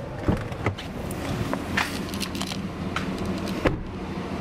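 Steady low hum inside a pickup truck's cab, with several sharp clicks and knocks, the loudest a little before the end.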